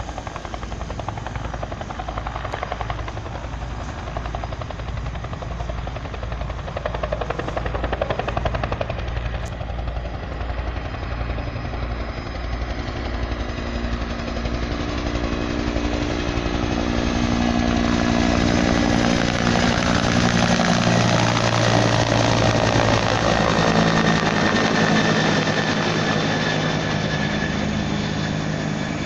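Bell 212 helicopter's twin-blade rotor beating in a steady pulse, with turbine tones coming in and the sound growing louder past the halfway point, then easing slightly near the end.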